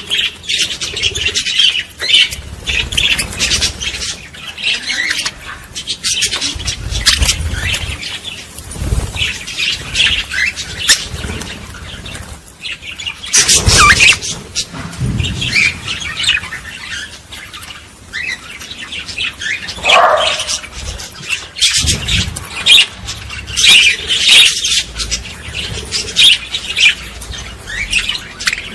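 A group of small birds chirping and twittering without pause, many quick calls overlapping, with a few low thumps now and then.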